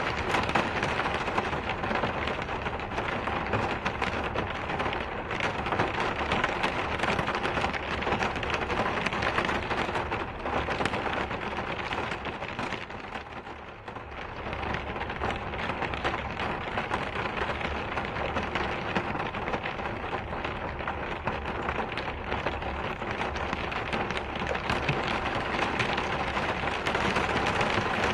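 Steady rain falling, a dense even hiss of drops that dips briefly about halfway through and then builds back.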